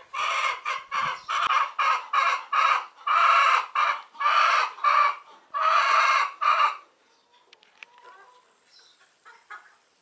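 A bird calling loudly in rapid, repeated bursts, which stop about seven seconds in, followed by a few faint chirps.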